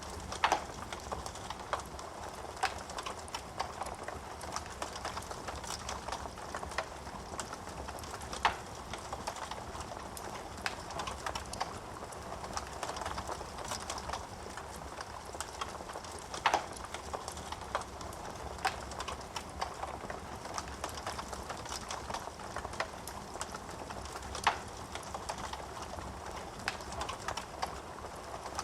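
Wood fire burning in a fireplace: a steady hiss of burning with frequent small crackles, and a few louder sharp pops scattered through it.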